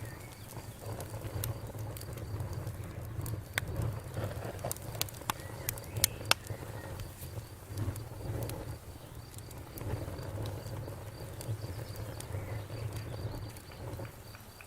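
Campfire crackling: scattered sharp pops and snaps, the loudest a few around five to six seconds in, over a low steady rumble.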